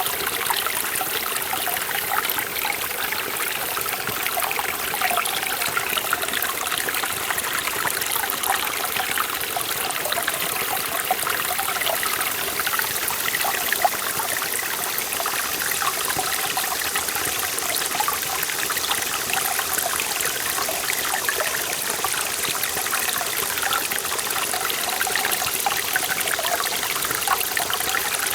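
Forest valley stream flowing steadily, water splashing and trickling over rocks in a constant rush.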